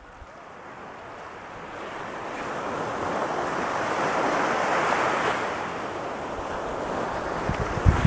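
Ocean surf breaking and washing up a sandy beach. The rushing hiss swells over the first few seconds, peaks about halfway, then eases a little. Wind buffets the microphone with low rumbles near the end.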